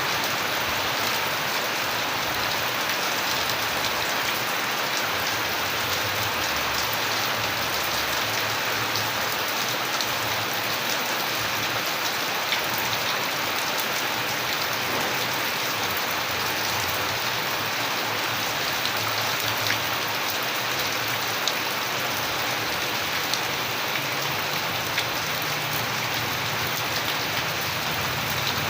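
Steady, heavy rain falling on a surface, with the dense hiss of the downpour and a few sharper drop taps now and then.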